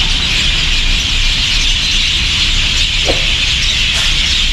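A large flock of swallows twittering in a dense, unbroken chorus of high chirps, over a steady low rumble.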